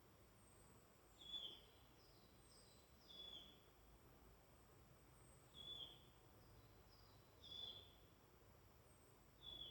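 A woodland songbird calling: five short, high, falling notes about two seconds apart, with fainter, higher calls from other birds between them over a faint low hum.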